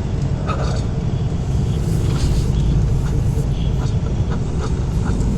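Heavy-haul semi truck's diesel engine running steadily while the truck drives, a constant low rumble with scattered short clicks and rattles over it.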